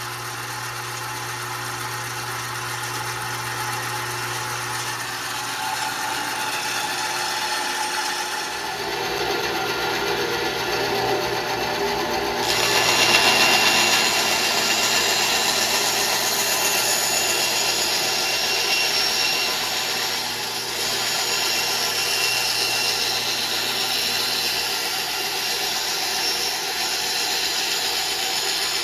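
1952 Delta-Milwaukee 10-inch band saw running on freshly fitted urethane tires, first a steady motor hum, then the blade cutting into wood from about a third of the way in, the cut growing louder and harsher about halfway through. The cutting stops abruptly at the very end.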